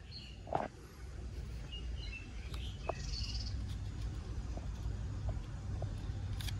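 A few short bird chirps over a low, steady background rumble, with a soft knock about half a second in.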